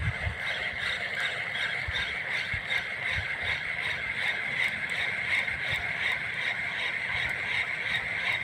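Spinning fishing reel being cranked to retrieve a lure: a steady whirr with a quick regular pulse, about four or five turns of the handle a second, and soft knocks of handling in the boat.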